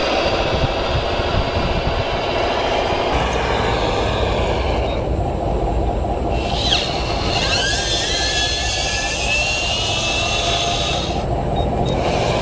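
Radio-controlled construction models running: a steady mechanical noise of small motors and gearing, with a few short rising whines about seven seconds in.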